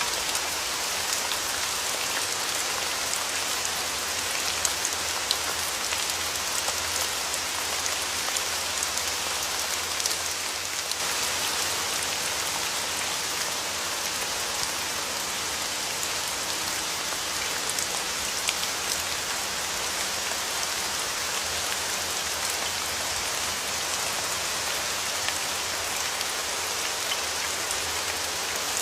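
Steady rain falling, with scattered sharper drip and drop hits.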